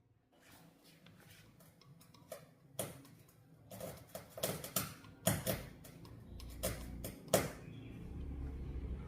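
A run of sharp clicks and knocks, like hard objects being handled on a workbench, with a low steady hum coming up near the end.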